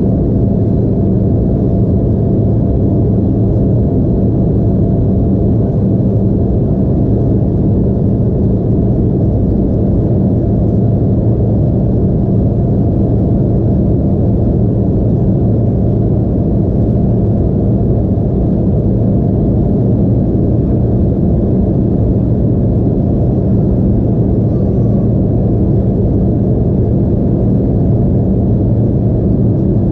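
Steady drone inside the cabin of an Embraer E175 airliner: the hum of its turbofan engines and rushing air, mostly low, with a constant hum and no change in level.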